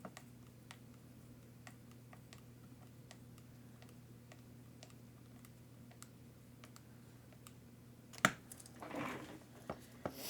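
Light, scattered clicks and taps of small parts and tools being handled during RC truck repair. A sharper, louder click comes about eight seconds in, followed by a brief rustle, all over a faint steady hum.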